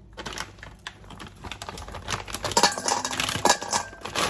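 Rapid clicking and clattering of small hard things against kitchenware, growing louder and denser after about two seconds.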